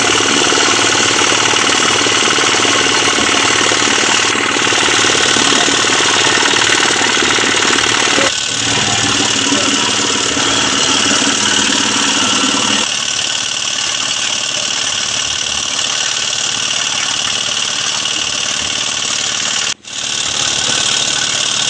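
Engine-driven road-repair machinery running loudly and continuously with a dense clatter. Its tone shifts about 8 and 13 seconds in, and it cuts out for an instant near the end.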